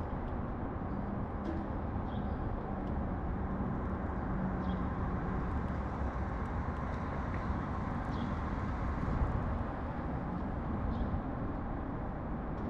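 Steady low rumble of city traffic, with faint short bird chirps now and then, a few seconds apart.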